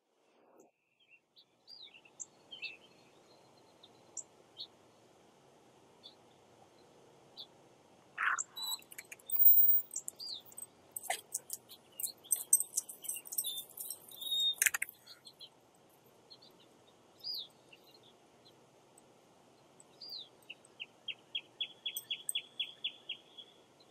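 Songbirds chirping in short scattered calls over a faint steady background hiss. In the middle there is a clatter of sharp clicks and high jingling, and near the end a bird gives a fast trill of about four chirps a second.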